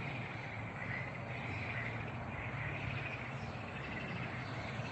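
Steady insect chorus, a high wavering drone, over a low steady hum.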